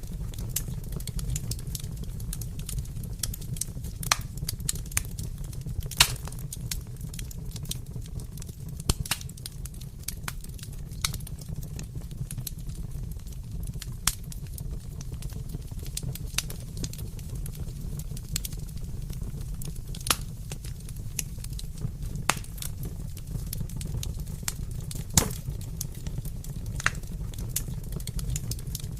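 Wood fire crackling in a fireplace: a steady low rumble with scattered sharp pops every second or few seconds.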